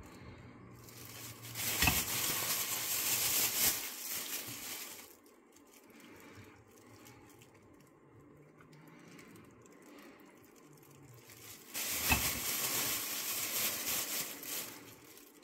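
Plastic bag of mozzarella crinkling in two stretches of a few seconds each, one starting about a second and a half in and another near the end, with quieter rustling in between.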